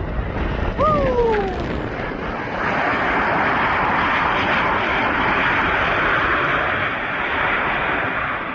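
Aircraft engines running as a plane passes, a loud steady rush that swells in about two and a half seconds in, over wind buffeting the microphone. About a second in, a short falling whistle-like tone sounds once.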